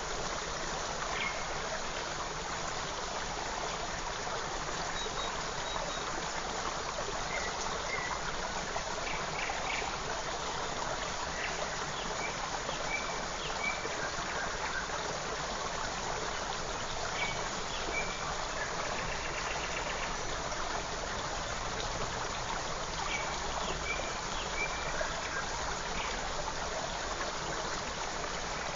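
A small forest stream babbling steadily, with faint, short high chirps scattered over the water sound.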